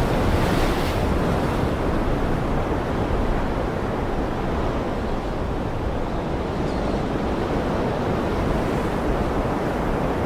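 Ocean waves washing in a steady, even rush of surf, with a brighter hiss of a breaking wave in the first second.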